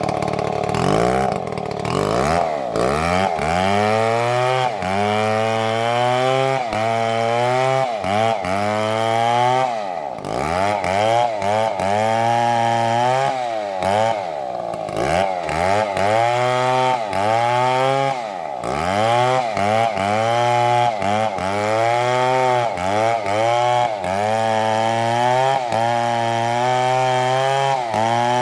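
STIHL chainsaw cutting wood, its engine pitch wavering up and down as the chain works through the cut. The revs drop sharply and climb back several times, about 2, 10, 14 and 18 seconds in.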